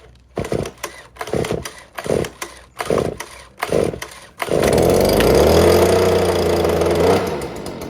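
STIHL BG86C backpack-style handheld leaf blower's two-stroke engine being cold-started with its pull cord: about five short pulls, then it catches about four and a half seconds in and runs high for a few seconds before dropping to a lower, fast-pulsing idle near the end. A cold start on 50:1 mixed fuel after two months of sitting.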